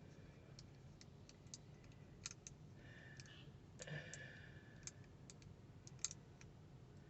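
Faint, scattered light clicks of diamond-painting drills being picked up and pressed onto the canvas with a drill pen, over near-silent room tone.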